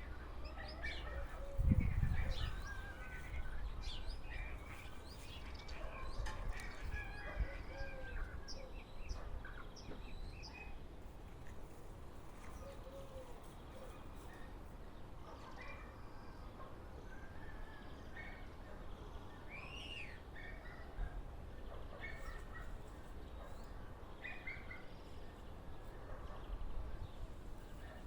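A bird chirping and whistling in many short, varied calls, some rising and falling in pitch. There is a low thump about two seconds in.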